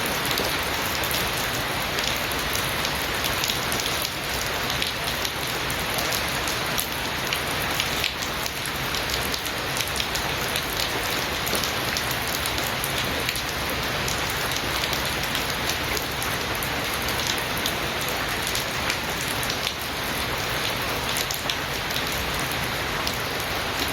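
Steady heavy rain falling, a constant hiss dotted with many sharp drop impacts.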